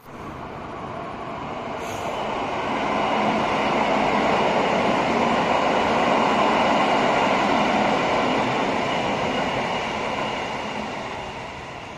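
A train passing, its wheels rumbling on the rails; the sound builds over the first few seconds, is loudest around the middle and fades near the end.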